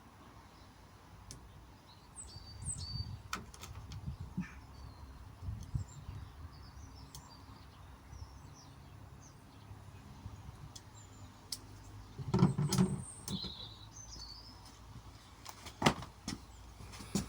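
Birds chirping in the background while things are handled close by, with low rustling and a few sharp knocks, the loudest about twelve seconds in and another near the end.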